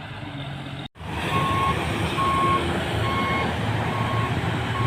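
A truck's reversing beeper sounding a steady, repeated beep about once a second over heavy truck engine and road rumble. The sound cuts out briefly about a second in.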